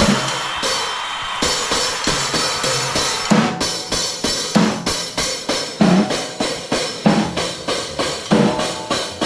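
Drum kit played in a steady beat. A cymbal rings at first; from about a second and a half in, strokes fall about every half second, with a heavier bass-drum hit about every second and a quarter.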